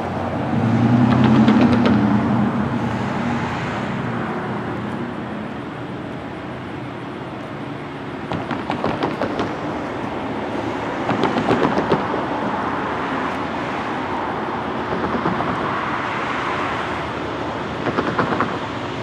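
A freight train approaching from a distance as a steady rumble. A low drone comes in the first few seconds, and short bursts of rattling come several times later on.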